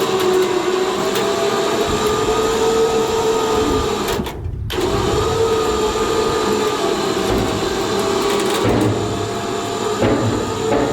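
A motor running steadily with a high, even whine, broken off for a moment about four seconds in.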